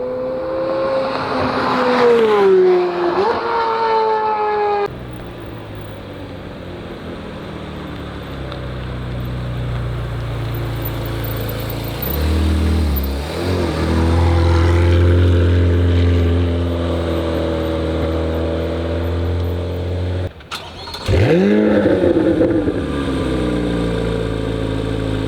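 Chevrolet C8 Corvette Z06's flat-plane-crank V8 through an AWE exhaust, heard from outside the car. The engine note falls in pitch over the first few seconds, then runs steady and deep, and near the end swings up and down in pitch again. The sound changes abruptly twice.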